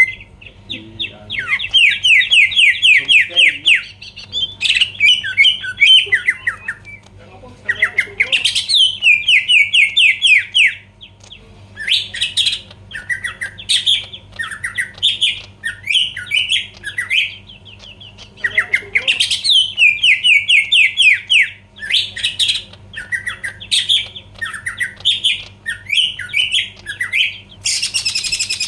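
Green leafbird (cucak ijo) singing hard in a long run of song: fast trills and rapid series of sweeping notes, phrase after phrase with short pauses.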